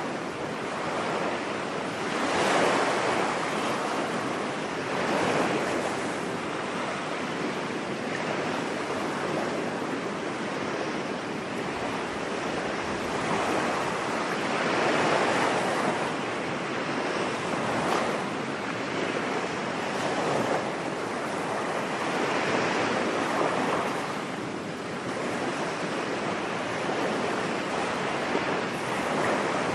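Ocean waves washing onto a beach: a steady surf that swells and eases every few seconds.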